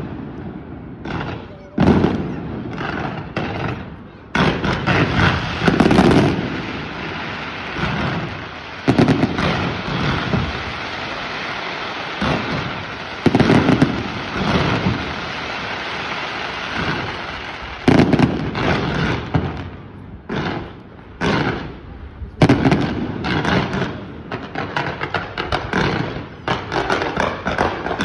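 Fireworks display: a series of loud bangs from bursting shells, one every two to four seconds, each with a booming tail, over a continuous crackling hiss. Over the last several seconds the crackle turns into a rapid run of small pops.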